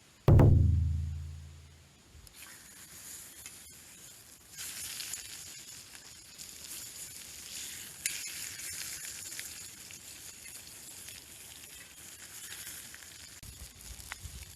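Chicken sizzling on a grill over a wood fire, a crackling hiss that starts about two seconds in and carries on. Just before it comes a loud low tone that dies away over about a second and a half.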